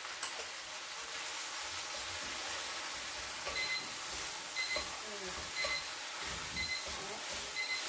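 Steady hiss of food sizzling in a pan. In the second half a faint, short, high chirp repeats about once a second.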